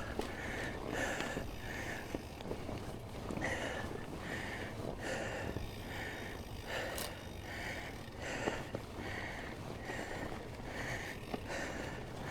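Mountain biker breathing hard while riding, a steady rhythm of in-and-out breaths about twice a second. A single sharp click about seven seconds in.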